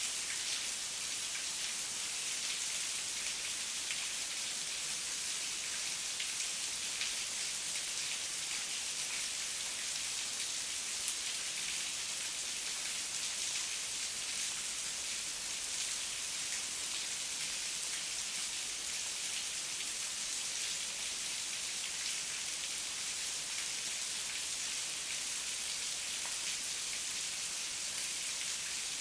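Steady heavy rain falling, a dense even patter of drops without pause.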